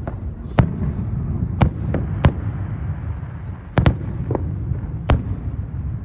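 Fireworks going off: about eight sharp bangs at irregular intervals over a steady low rumble.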